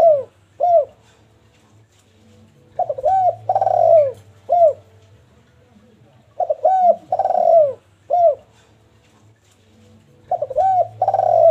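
Spotted dove (derkuku) cooing in a repeated phrase: two short coos, a longer rolling coo and a final short coo, coming again about every four seconds.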